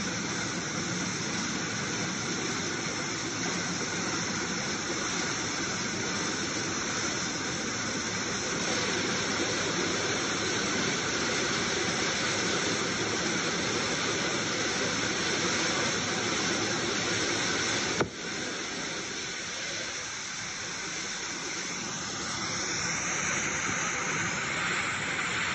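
Muddy floodwater surging in a torrent through a rocky gorge: a steady loud rush, with a click and a brief dip about three-quarters of the way through.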